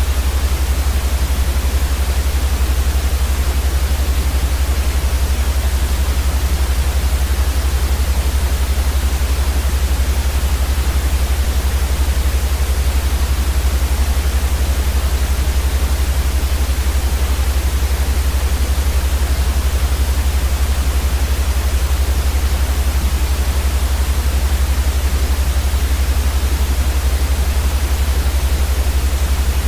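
Steady white noise for sleep: an even, unbroken hiss across the whole range over a louder low rumble below about 100 Hz.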